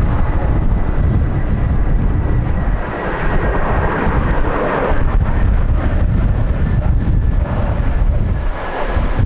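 Jet airliner engines running as a plane passes close by: a low rumble with a faint high whine that slowly drops in pitch, mixed with wind buffeting the microphone.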